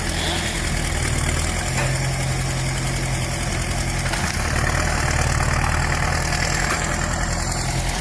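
A heavy machine's engine idling steadily, its low note shifting slightly about two and four seconds in.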